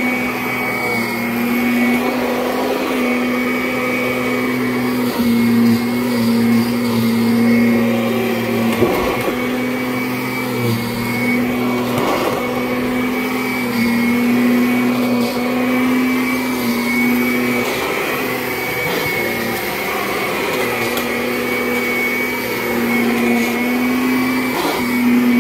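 Kirby Avalir 2 upright vacuum cleaner running on carpet: a steady motor hum whose pitch wavers slightly up and down as it is pushed back and forth.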